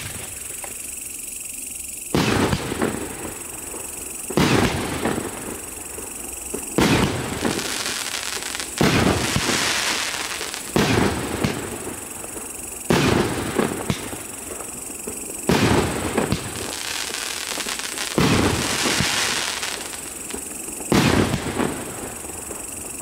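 A 16-shot 1.2-inch fireworks cake (РС8068 'Russian Races') firing its shots one at a time, about every two seconds. Each shot is a sharp bang followed by crackling from the shell's crackling-spark tail and burst.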